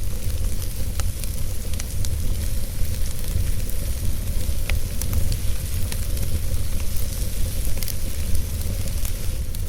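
Wood fire burning in a fireplace: a steady low rumble of the flames with a soft hiss and scattered, irregular sharp crackles and pops from the burning wood.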